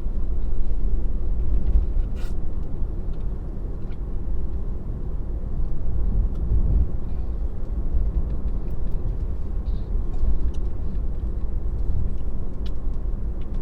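Steady low road and tyre rumble inside a moving Tesla's cabin, with a few faint ticks now and then.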